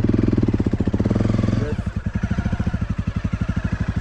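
Honda CRF250L's single-cylinder engine running under throttle, then dropping back to a steady idle at lower revs a little under two seconds in.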